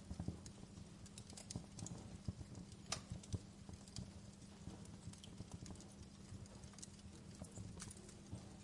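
Wood fire in a fireplace crackling: irregular sharp pops and snaps over a low rumble of burning, with a couple of louder pops about three seconds in.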